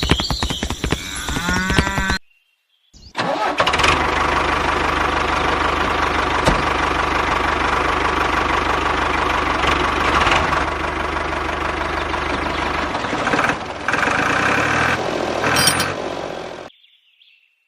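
An engine running steadily, starting about three seconds in after a brief gap and cutting off near the end. Before the gap come some shorter sounds with rising glides.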